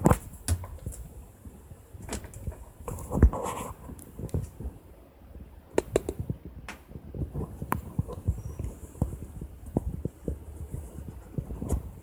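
Scattered light knocks, taps and rustles from a cat moving about on and in a washing machine and knocking its lid, with one louder thump about three seconds in.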